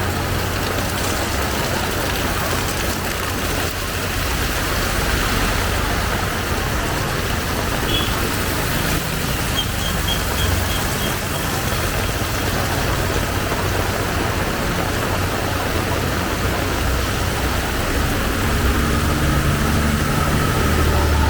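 Heavy rain pouring steadily, with a motor vehicle's engine running at idle close by, its low hum growing stronger near the end. A few faint, short high beeps sound about eight to eleven seconds in.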